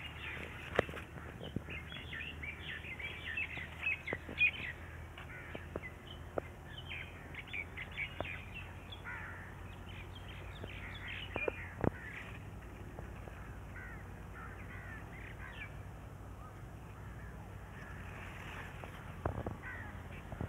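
Birds chirping and calling outdoors, many short calls that are thickest in the first half and thin out later, with occasional sharp clicks from hands brushing the bean plants.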